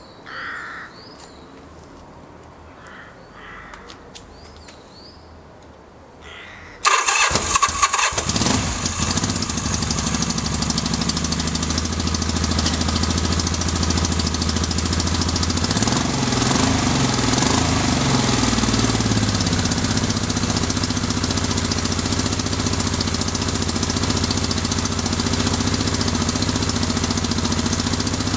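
Yamaha XS750 three-cylinder motorcycle engine starting about seven seconds in, uneven for a second or so as it catches, then running steadily while firing on only two of its three cylinders, the bike's first run after being a non-runner. Faint bird chirps before it starts.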